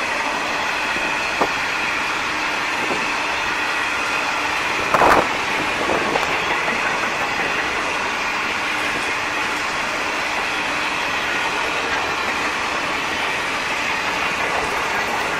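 Grain hopper wagons of a freight train rolling past: a steady rush of steel wheels on rail, with a brief louder knock about five seconds in.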